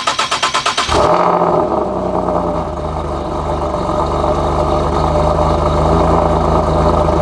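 Single-turbo Nissan 370Z Nismo's 3.7-litre V6 cranking on the starter for about a second, then catching and settling into a steady cold-start idle after sitting four or five days. It runs as it is supposed to, with no exhaust-leak noise, the leaks just having been fixed.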